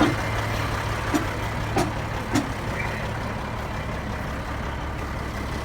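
Heavy diesel engine idling steadily, with a few short metallic knocks in the first couple of seconds.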